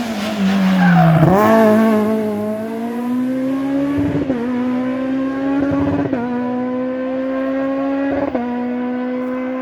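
Rally car engine coming off the throttle with its pitch falling through downshifts, then accelerating hard away with three upshifts about two seconds apart, the sound fading as the car pulls away.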